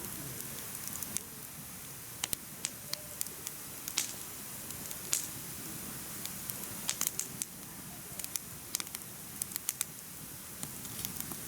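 Firewood burning in a mesh fire pit, crackling with irregular sharp pops over a steady low rush of flame.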